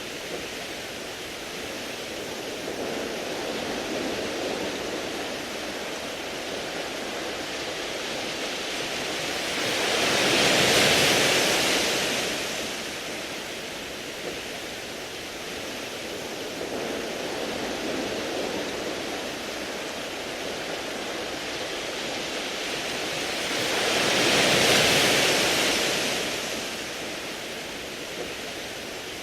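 Waves washing over a beach of smooth round pebbles: a steady surf hiss that swells twice, about 14 seconds apart.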